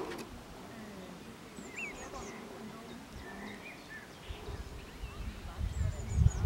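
Quiet outdoor ambience with faint, scattered bird chirps. Low rumbling and thumps on the microphone build from about four seconds in.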